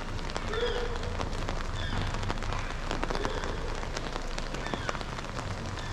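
Steady rain falling on street surfaces, with many sharp drops tapping close by.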